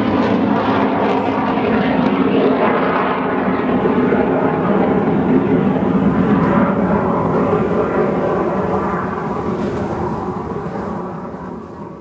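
Loud noise of a MiG jet fighter's engine as the jet passes. It holds steady, then fades over the last few seconds as the jet moves away.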